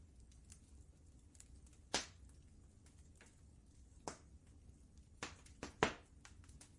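Wood fire crackling, with sharp pops and snaps at irregular intervals, a cluster of them late on, over a faint low steady rumble.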